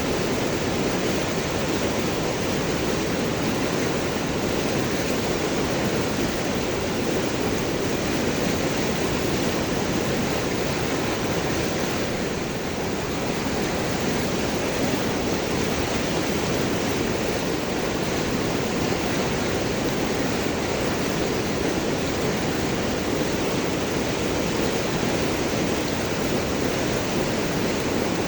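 River water flowing and gurgling over and around large rocks, a steady rushing noise.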